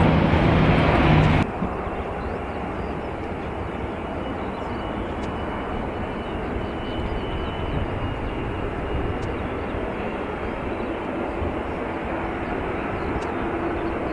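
Airliner engine noise at an airport: a loud, even noise cuts off abruptly about a second and a half in, leaving a quieter steady noise with a faint high whine.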